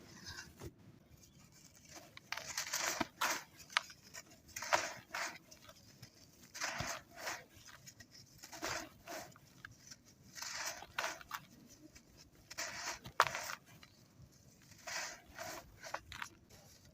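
Dry, crispy sand clumps crumbling and crunching in short gritty bursts, many in quick pairs, with quiet gaps between.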